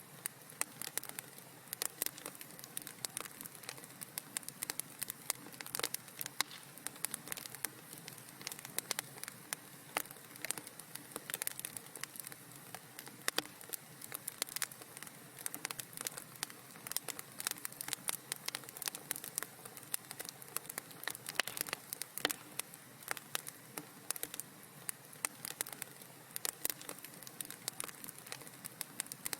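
Wood fire crackling in a fireplace: dense, irregular small pops and snaps over a low steady hiss.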